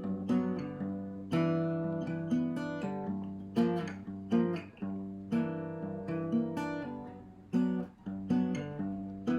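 Guitar backing music: chords plucked and strummed in a steady rhythm, each ringing out and fading before the next.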